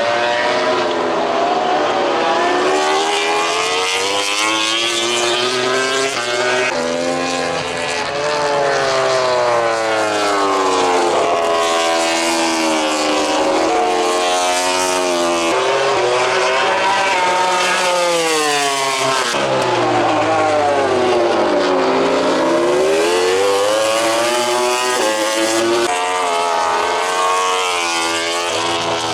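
MotoGP race bikes' 1000 cc four-cylinder engines at full song on track, pitch climbing and dropping again and again through gear changes and passes, often with more than one bike heard at once.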